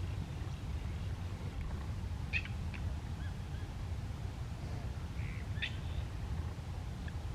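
Wild birds giving a few short chirping calls, a pair about two seconds in and another a little after five seconds, over a steady low rumble.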